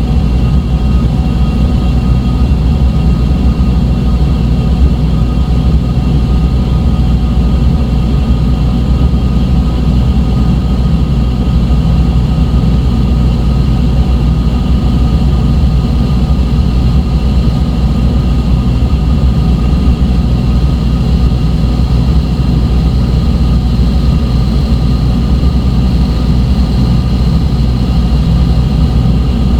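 Dark ambient electronic drone: a loud, steady low rumble with several thin sustained high tones held above it.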